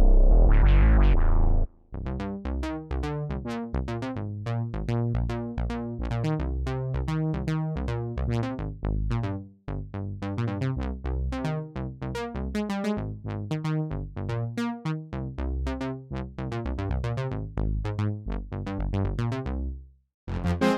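Arturia Matrix-12 V, a software emulation of the Oberheim Matrix-12 polyphonic analog synthesizer, playing. A loud held sound cuts off after a couple of seconds, then a rapid sequenced pattern of short plucked notes over a bass line runs on and stops just before the end.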